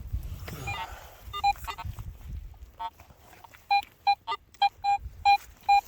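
Digging and scraping in soil, then a metal detector beeping in short repeated electronic tones that grow louder and come in quick succession over the last two seconds, as it is passed over the target in the dug hole.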